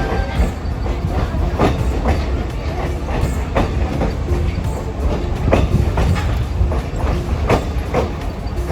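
Excursion passenger train running along the track: a steady low rumble with irregular clacks of the wheels passing over rail joints.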